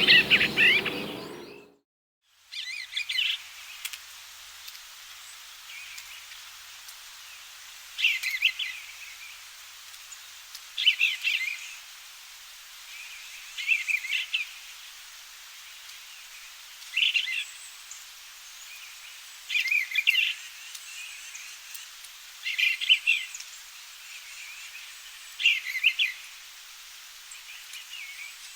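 Bluebird singing short warbled phrases, one about every three seconds, over a steady faint hiss. Before this, a louder stretch of birdsong fades out in the first two seconds and gives way to a brief gap.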